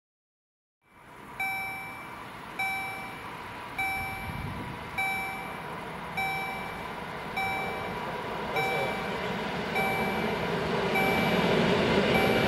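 Railway level crossing warning bell striking a ringing ding about every 1.2 seconds, starting about a second in. Over the last few seconds the rumble of an approaching train grows louder under it.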